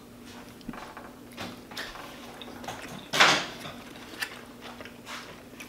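Two people quietly chewing sushi: soft mouth smacks and small clicks, with one short, louder breath about three seconds in as the wasabi bites.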